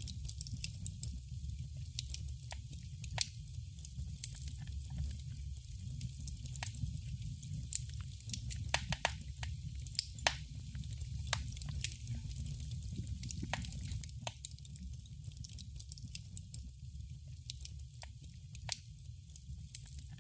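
Wood fire crackling in a fireplace: irregular sharp pops and snaps over a steady low rumble, the snaps thinning out in the last few seconds.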